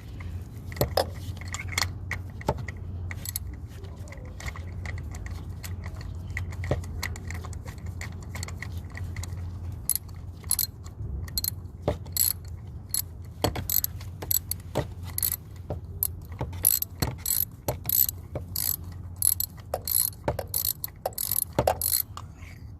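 Ratchet wrench clicking as a spark plug is unscrewed from the engine, sparse clicks at first, then quick runs of clicks from about halfway through.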